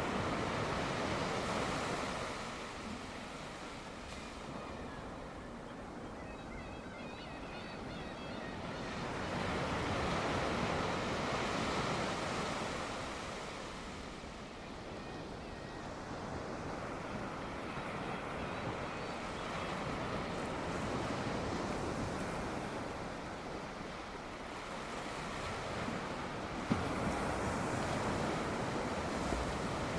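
Ocean surf breaking on the shore, swelling and easing in slow surges about every eight to ten seconds.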